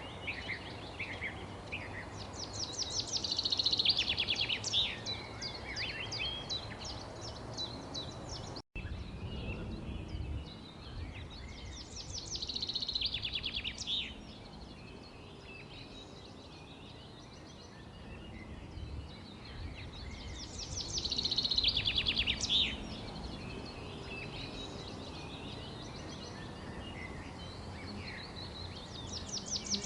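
Wild birds chirping and singing, with bursts of rapid, trilled song returning every eight seconds or so over a steady low background noise. The sound cuts out for an instant about a third of the way in.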